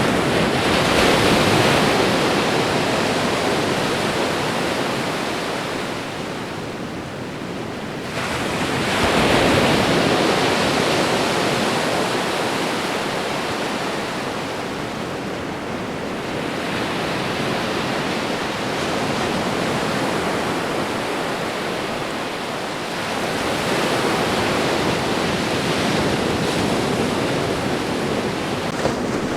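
Ocean waves breaking and washing up a shore, one surge every seven or eight seconds, each rising quickly and then fading off.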